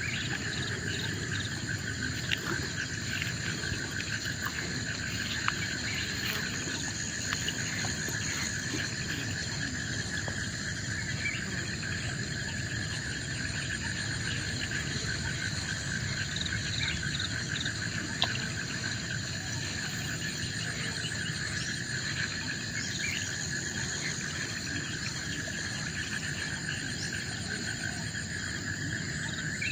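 Chorus of forest insects: several steady, high, overlapping drones at different pitches, with scattered faint clicks and chirps.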